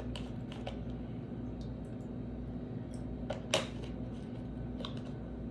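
A few light clicks and taps, the loudest about three and a half seconds in, over a steady low hum.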